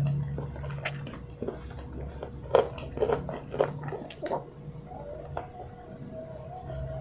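Close-up mouth sounds of a person eating rice and fried chicken by hand: soft chewing with wet lip smacks and clicks, a quick cluster of them about halfway through, over a faint low hum.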